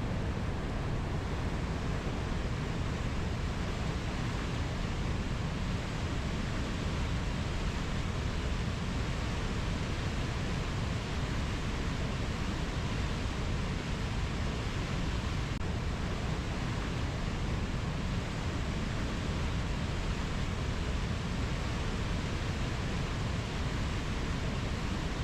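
Steady, even rushing noise with no distinct calls or events, heaviest in the low end.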